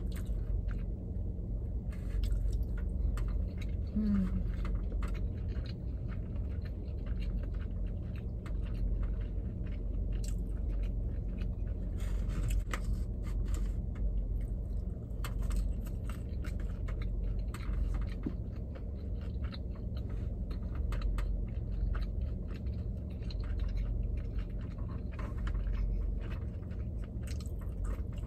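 Close-up chewing of sushi: many small irregular mouth clicks and smacks as a person eats, over a steady low hum.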